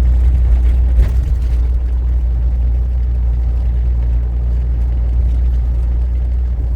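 Steady low rumble of a semi-truck's diesel engine and road noise heard inside the cab, with a single click about a second in.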